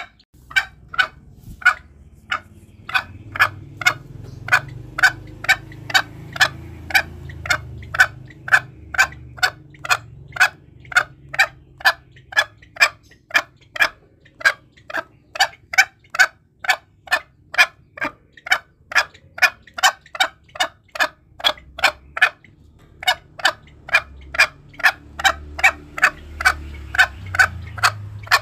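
Green junglefowl calling: a steady run of short, clipped calls, about three a second, with brief breaks about 14 and 23 seconds in, over a faint low rumble.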